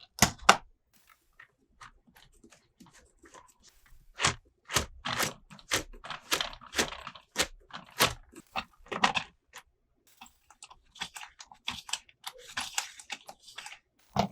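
Crinkling and crunching of toy packaging being handled and opened, in irregular sharp crackles and clicks that thicken after a few quiet seconds.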